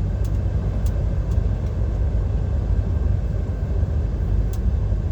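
Steady low rumble of a DAF XF 530 lorry's six-cylinder diesel and tyres cruising at about 50 mph, heard inside the cab.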